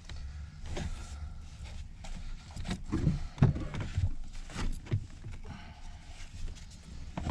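Irregular clicks, knocks and scrapes of plastic car interior trim panels being handled and pried at, with a cluster of dull thumps about three to four seconds in.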